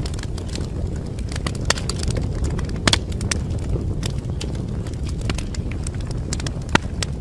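Wood fire burning in a fireplace, crackling with irregular sharp pops over a steady low roar of the flames. Two of the pops are louder, about three seconds in and near the end.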